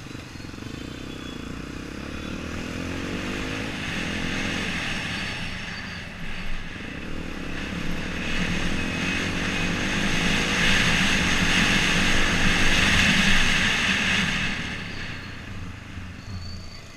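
Yamaha XTZ 125's single-cylinder four-stroke engine accelerating, its pitch rising twice as it pulls up through the gears, with rushing wind noise that builds toward the middle and fades near the end.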